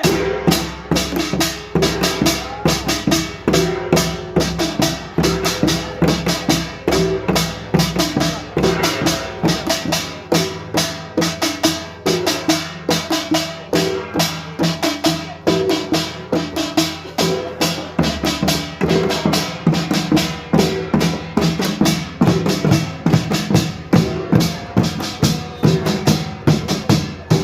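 Korean pungmul percussion ensemble of gongs and drums (kkwaenggwari, jing, janggu and buk) playing together in a fast, steady rhythm without a break.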